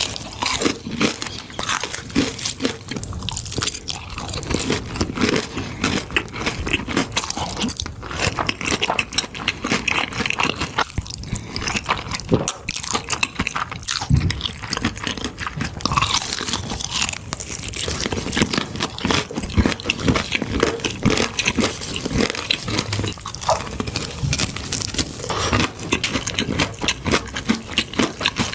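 Close-miked eating sounds: a person biting and chewing food, a dense unbroken run of sharp mouth clicks and smacks.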